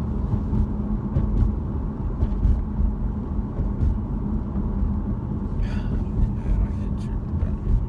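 Steady low rumble of a car driving, engine and road noise heard from inside the cabin, with a steady hum underneath.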